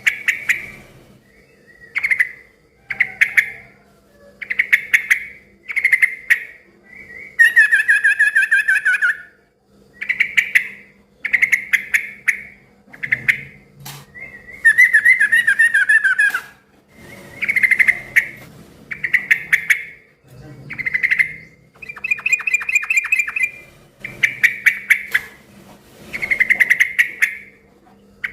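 Yellow-vented bulbul (trucukan) singing loudly in short bubbling, chattering phrases, one every second or two, with two longer chatters that slide down in pitch.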